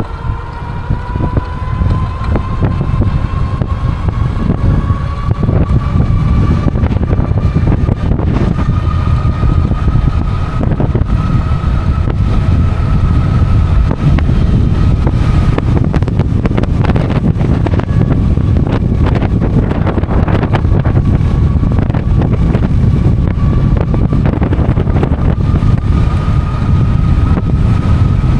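Strong wind buffeting the microphone as a loud low rumble, over the steady whine of an e-bike's electric motor, which rises in pitch over the first two seconds as the bike picks up speed.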